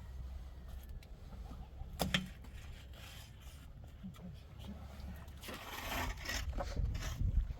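A single knock about two seconds in. From about five and a half seconds, a run of short scraping strokes, like a tool being worked against a rough surface, over a low rumble.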